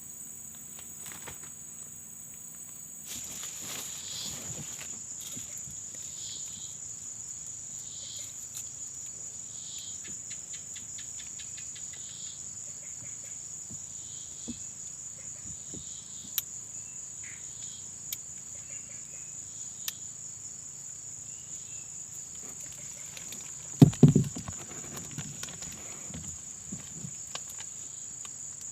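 Insects trilling in a steady high-pitched chorus that grows louder about three seconds in, with a softer pulsing call repeating every two seconds or so. A few sharp clicks sound through it, and a brief cluster of knocks about 24 seconds in is the loudest sound.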